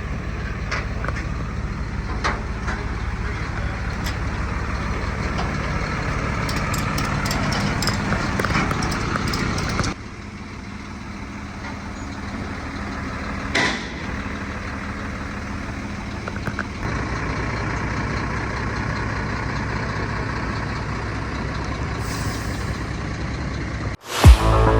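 Mercedes transporter truck's diesel engine idling steadily, dropping in level about ten seconds in, with one brief sharp sound a few seconds after that.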